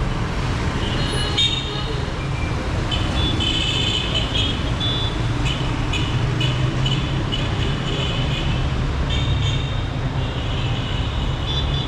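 Heavy city street traffic: engines and tyres rumbling steadily, with car horns tooting over and over in short honks from about three seconds in.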